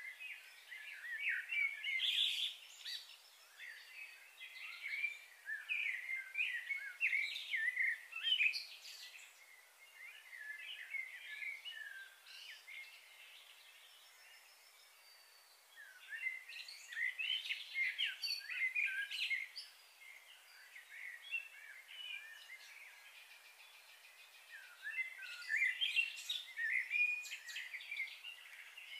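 Small birds chirping and twittering in three bouts of quick, overlapping short notes, over a steady faint hiss.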